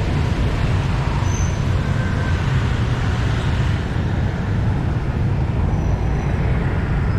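Steady street traffic noise: a constant rumble of passing engines.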